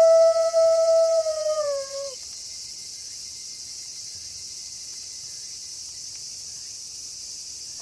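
The tail of a wolf howl held on one pitch, dropping off with a short downward slide about two seconds in. After it, only a steady high hiss of night background remains.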